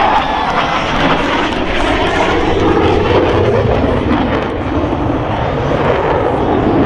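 Boeing F/A-18E/F Super Hornet jet engines passing overhead: a loud, steady crackling jet noise that eases slightly near the end.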